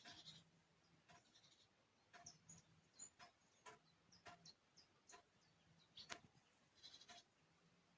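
Faint crackling of a wood campfire: scattered sharp pops and snaps.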